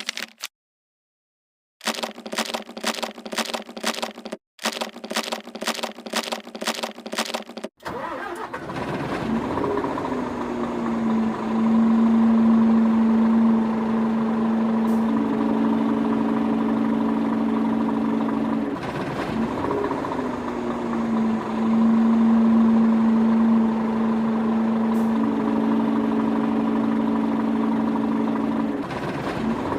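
Vehicle engine starting: a rhythmic cranking of about three beats a second for several seconds, then the engine catches and runs steadily. Its pitch steps up and drops back in the same pattern about every ten seconds.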